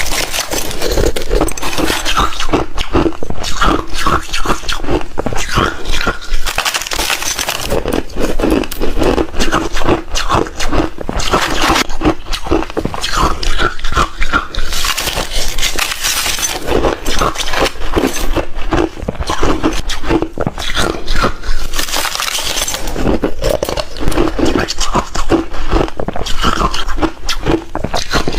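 Hard refrozen ice being crunched and chewed close to the microphone: a continuous run of loud, sharp cracks and crackles with wet mouth sounds.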